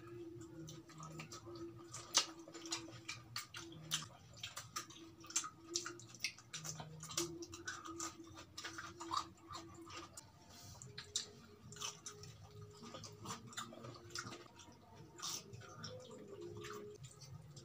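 Close-up mukbang eating sounds: irregular wet mouth clicks and lip smacks from two people chewing fried chicken and cucumber.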